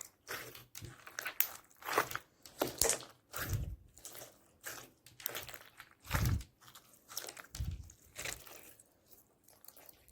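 Slime being pressed, folded and mixed by hand: a run of irregular sticky crackles and squishes, with a few deeper thuds.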